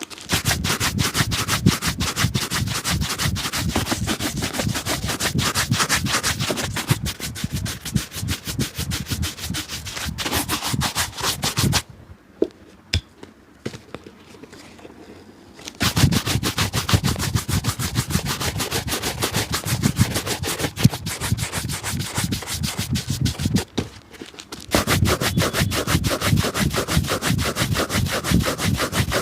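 Rapid back-and-forth rubbing strokes worked on a shoe, in long runs with two breaks: one of about four seconds near the middle, with a couple of faint taps, and a shorter one about two-thirds through.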